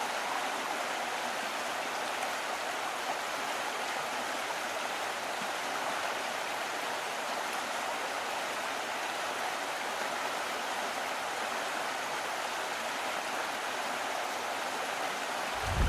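Steady rushing of running water, an even hiss without any change or break.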